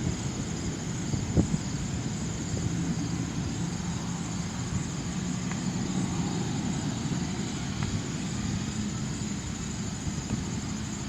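Business jet taking off in the distance: a steady jet engine rumble with a low hum.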